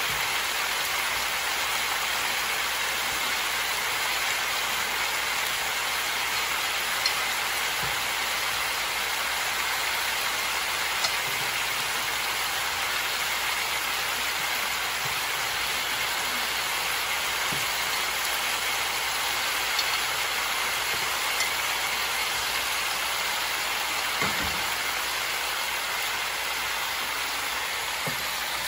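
Chicken, onion, carrot and potato frying in a wok, a steady sizzle with now and then a small pop.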